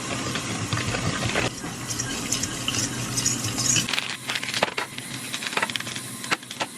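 Liquid being poured and sloshed in the kitchen while making jello, with scattered light clinks, more of them in the second half.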